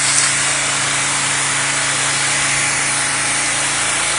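Pressure-washing equipment running steadily: an even engine hum under a constant spray hiss.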